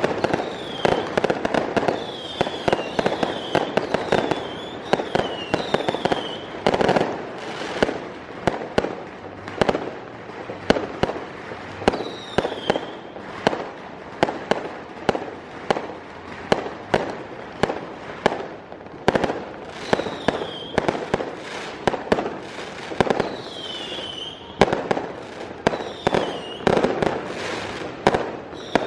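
Fireworks and firecrackers going off in a dense, irregular string of sharp bangs, mixed with short high whistles that fall in pitch. The bangs thin out briefly about halfway through.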